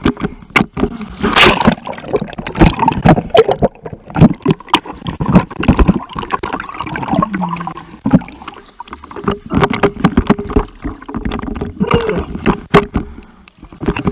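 Sea water splashing and sloshing close to the microphone in loud, irregular bursts, with gurgling.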